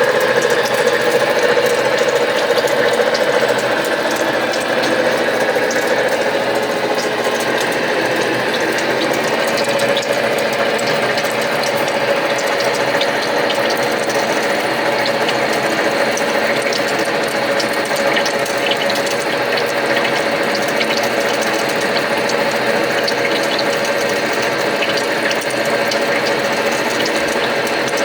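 Arad SNA 500x1000 lathe headstock running, its gear train turning with a steady whine and a fast gear clatter.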